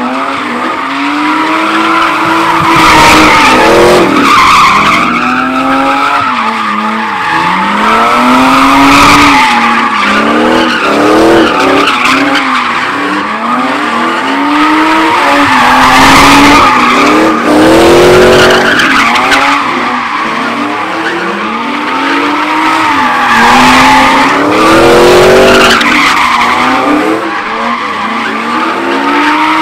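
A car spinning donuts: its engine revs up and falls back every couple of seconds while the tires screech without a break.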